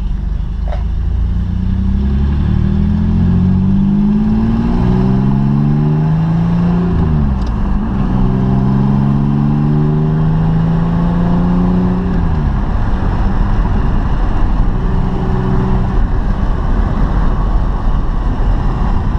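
Pickup's 3-liter V6 pulling hard under acceleration, heard from inside the cab. The engine note rises twice, dropping at each gear change, then settles to a steady cruise. The exhaust is loud and raw from a chopped-off muffler and a passenger-side exhaust leak.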